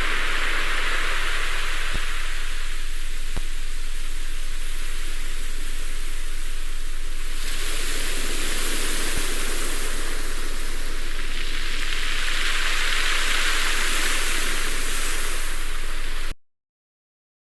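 Ocean surf: a steady hiss of waves washing in, swelling about three times, then cutting off suddenly near the end.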